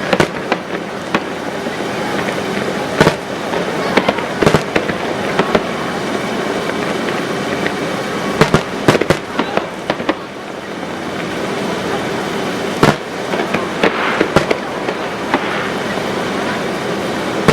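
Fireworks display: shells bursting with sharp bangs and crackles at irregular intervals, some in quick clusters, over a continuous background din.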